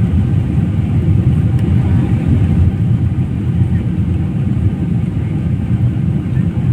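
Steady low rumble of a passenger jet's cabin in flight: engine and airflow noise, even throughout with no distinct events.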